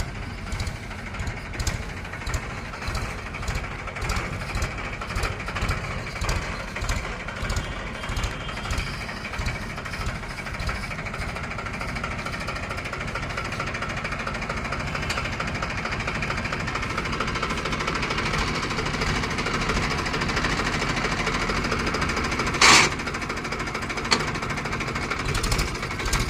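Diesel tractor engine running with a knocking beat, growing gradually louder over the second half. One short loud burst about three-quarters of the way through.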